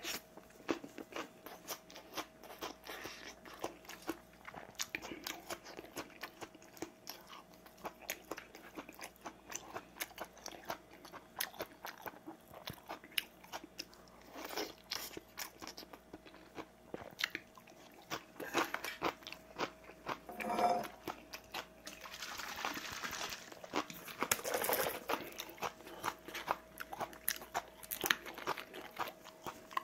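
Close-up chewing, smacking and crunching of someone eating rice and side dishes, heard as many small wet clicks. A louder noisy stretch of a few seconds comes about three-quarters of the way in.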